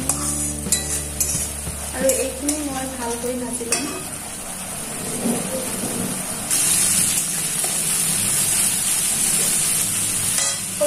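Onions and a ground ginger-garlic-mustard paste sizzling in hot oil in a steel wok, being fried off until the raw smell is gone. A metal spatula stirs and scrapes against the pan. The sizzle grows louder about six and a half seconds in.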